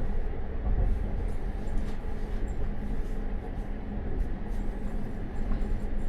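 Passenger train running along the track, heard from inside the carriage: a steady low rumble of wheels on rail.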